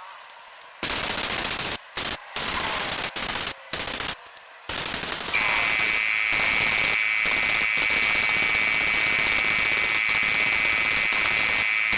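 Compressed-air paint spray gun spraying red paint: short bursts of hiss that start and stop sharply as the trigger is pulled and let go, then held open without a break from about five seconds in, with a steady high whistle over the hiss.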